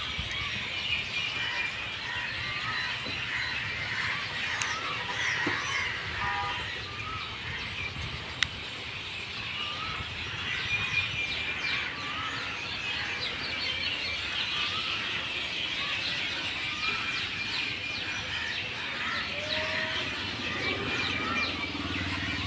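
A flock of birds chirping and calling together, many short overlapping notes forming a dense, continuous chorus. A single sharp click stands out about eight seconds in.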